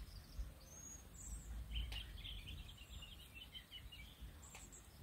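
Birds chirping faintly: a quick run of short chirps about two seconds in, over a low outdoor rumble.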